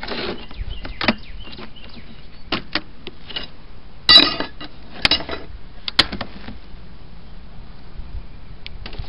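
Beehive parts being pried and handled while the queen excluder is taken off: a series of sharp clicks and knocks of hive tool against wood and plastic, the loudest a clattering scrape about four seconds in.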